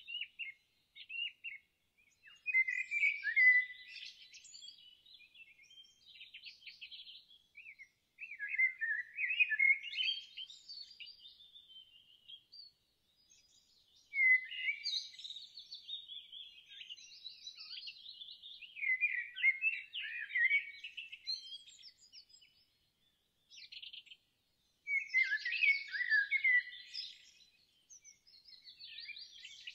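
Songbirds singing in quick chirping, warbling phrases, the phrases coming in bursts a few seconds long with short pauses between them.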